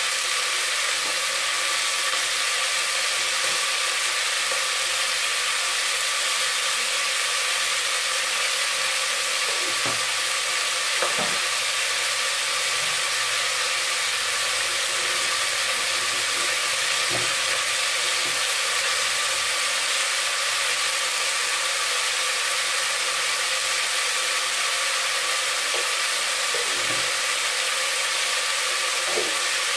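Mixed vegetables sizzling steadily as they fry in oil in an open pressure cooker on a gas burner, with a few faint pops now and then.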